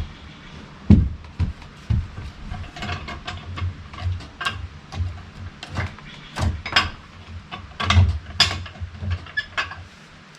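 Irregular knocks, clunks and scrapes as a large log is shifted and rolled on a small sawmill's bed, with a heavy thud about a second in and another near eight seconds.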